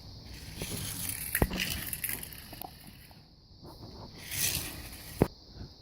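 Scraping and rustling handling noise, with a sharp click about a second and a half in and another near the end.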